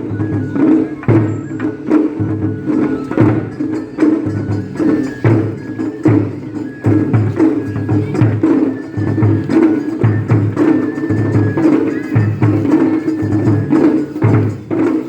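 Japanese festival hayashi music: regular deep drum beats with sharp clacking strikes and short high held melody notes above them.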